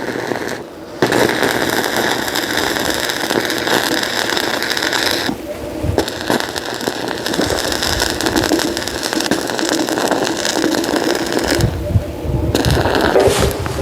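Electric arc welding crackling steadily, in three long runs with brief stops about five seconds in and again near the end.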